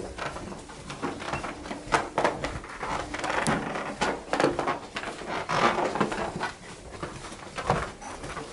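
Baggage lift in motion, giving off a run of irregular thumps and knocks over a faint steady hum. The thumping is the sign of badly worn bearings.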